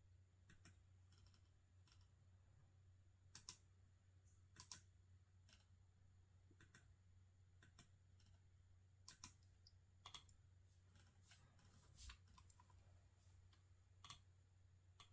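Quiet, scattered clicks of a computer keyboard and mouse: a dozen or so short clicks, some in quick pairs, separated by pauses of a second or more, over a faint steady low hum.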